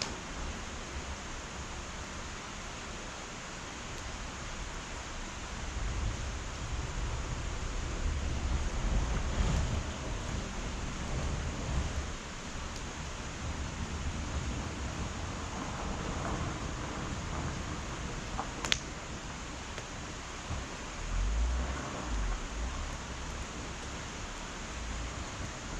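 Wood fire burning in an irori hearth: a steady hiss with low rumbling swells now and then, a few faint crackles, and one sharp pop about two-thirds of the way through.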